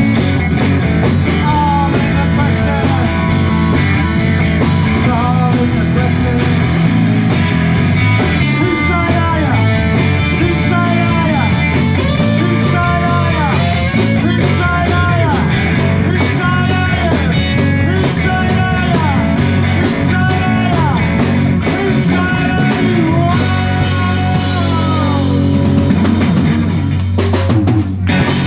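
Live rock band playing a loud instrumental passage: electric lead guitar bending notes over drum kit and bass, with the song stopping abruptly near the end.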